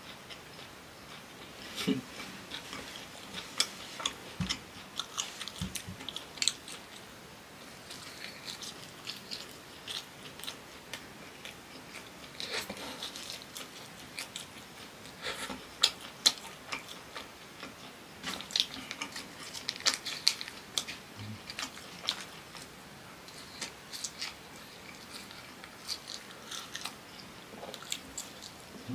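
Close-miked chewing of fried cassava, with many small irregular mouth clicks and crunches.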